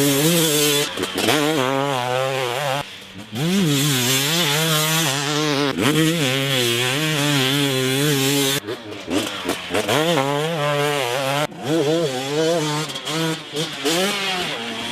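2017 KTM 250 SX two-stroke motocross engine revving hard under throttle, its pitch wavering up and down. The throttle is chopped briefly about three seconds in and twice more later, then the revs climb again.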